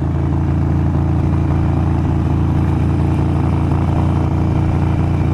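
Harley-Davidson Sportster Iron 883's air-cooled V-twin running through Vance & Hines Grenades exhaust at a steady pitch while the bike is ridden.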